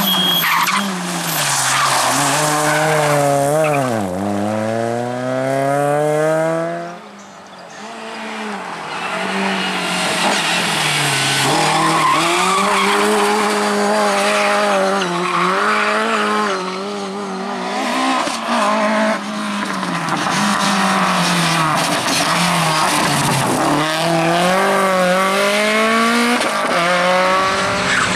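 Rally car engine revving hard, its pitch climbing and dropping sharply again and again as it shifts gears and lifts off, with tyre squeal mixed in. The sound dips briefly about seven seconds in, then the revving resumes.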